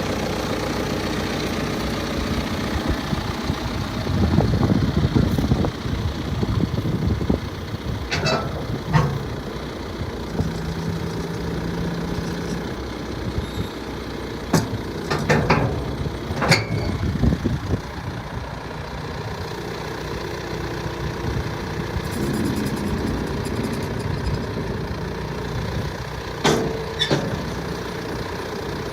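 John Deere 6120R tractor's four-cylinder diesel engine idling steadily. A few short knocks and clanks ring out over it now and then.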